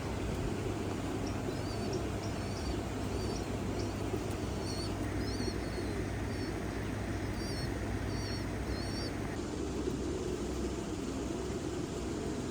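Pigeons cooing over a steady low rumble, with short, high, repeated chirps from about a second in until about nine seconds.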